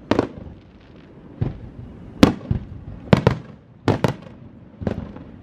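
Aerial firework shells bursting: about nine sharp bangs at irregular intervals, some in quick pairs, the loudest a little over two seconds in, several trailing off in a short rumble.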